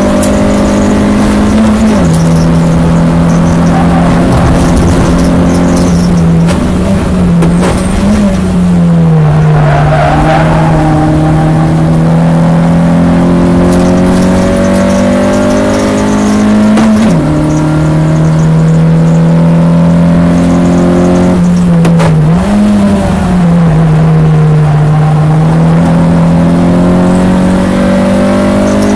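Citroën Saxo VTS 8V Copa race car's 1.6-litre eight-valve four-cylinder engine at hard throttle, heard from inside the car. Revs climb and drop sharply at upshifts about two seconds in and again just past halfway, with short throttle blips on downshifts into the braking zones and a long stretch of steady lower revs through a corner.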